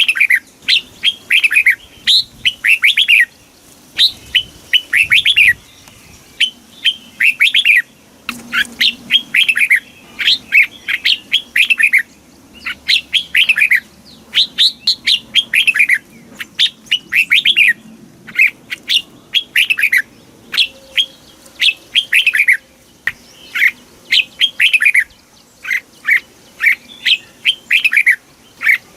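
Red-whiskered bulbul singing: short, bright phrases of quick notes, each sweeping down in pitch, repeated one after another with brief gaps.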